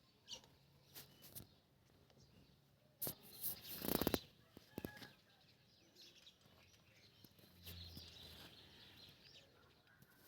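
Cat eating its food: irregular small clicks and chewing noises, with a louder burst about three to four seconds in.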